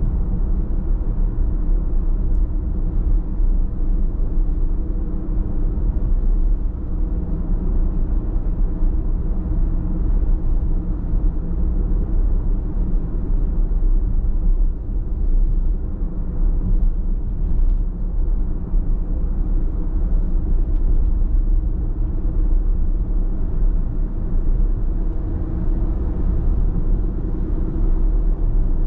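A car driving at a steady pace: a continuous low rumble of tyre, road and engine noise.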